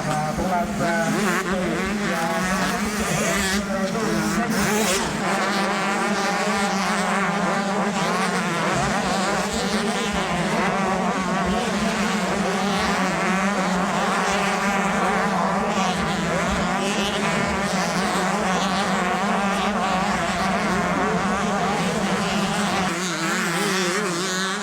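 Pack of two-stroke motocross bikes racing, several engines revving up and down and overlapping.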